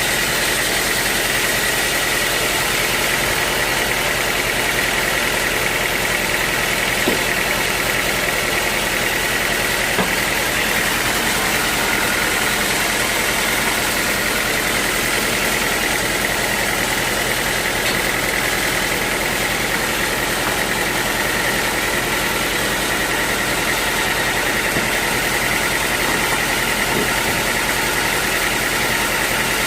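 Sawmill machinery running steadily: a continuous mechanical noise with a steady high whine.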